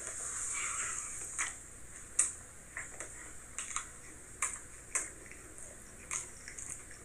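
Person chewing food with mouth smacks: a string of short, sharp, irregular clicks, about one every half second to a second, over a faint hiss.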